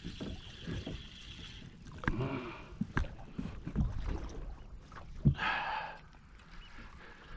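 Knocks and clicks of fishing gear being handled in a small boat on the water, with one sharp knock about five seconds in followed by a short rushing sound.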